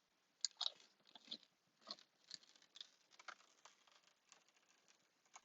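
Faint, scattered clicks and crinkles of clear tape being handled, about a dozen light ticks spread over a few seconds.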